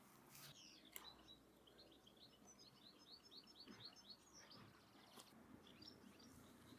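Faint birdsong: scattered high chirps, with a rapid series of quick notes lasting about two seconds in the middle.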